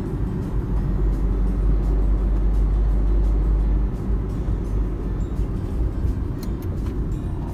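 Steady low rumble of a moving vehicle, the deepest part of it easing slightly about four seconds in.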